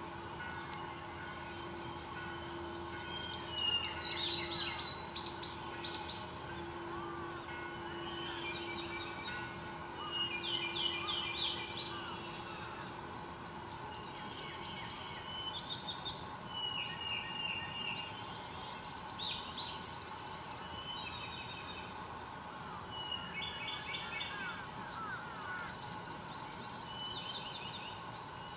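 Wild birds singing in short, rapid phrases of high notes, one phrase every five to six seconds, over a steady background hum.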